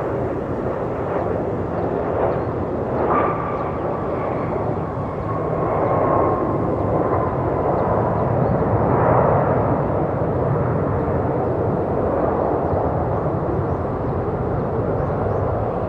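Boeing 737-900ER jetliner passing with its CFM56 turbofan engines running: a steady jet noise, with a thin whine that comes in about three seconds in and falls slightly in pitch over the next few seconds.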